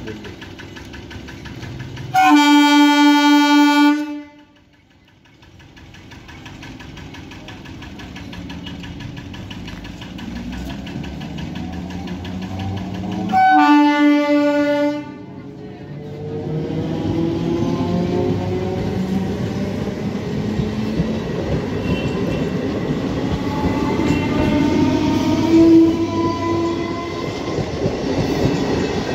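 Electric multiple unit (EMU) local train sounding two long horn blasts, the first about two seconds long and the second, some eleven seconds later, a little shorter. It then runs past close by at speed, its wheels clattering over the rails, with a whine rising in pitch as it goes.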